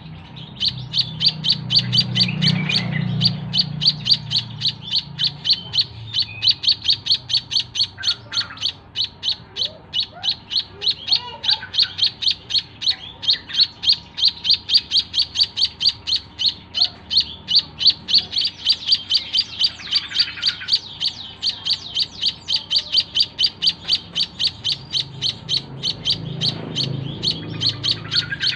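White-headed munia (emprit kaji) chirping without a break in a fast, even series of short high calls, about three a second. A faint low rumble rises under it near the start and again near the end.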